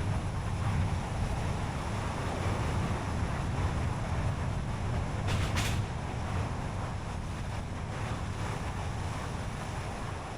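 Car driving along a road: steady low rumble of tyres and engine with road noise, and a short brighter rush a little past halfway.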